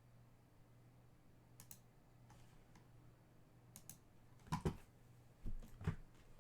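A few sparse sharp clicks, then several louder soft knocks in the second half, from handling on a desk, over a faint steady hum.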